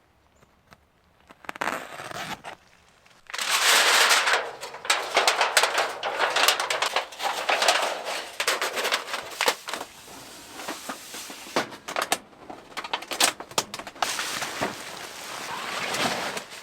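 Rustling, crinkling handling noise full of sharp clicks and knocks, starting about three seconds in.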